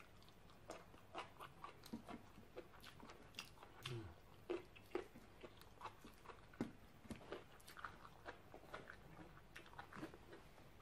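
A person chewing and biting crunchy raw food, papaya salad and a fresh green pod, close to the microphone. The sound is faint, irregular soft crunches and wet clicks, several a second.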